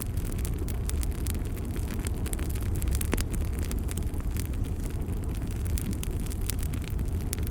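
Fire burning in a fireplace, crackling and popping irregularly over a steady low rumble, with one sharper pop about three seconds in.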